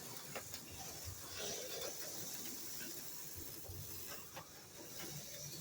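Auto World X-Traction Ultra G HO-scale slot cars running laps on a plastic track: a steady high whirring hiss with faint scattered clicks.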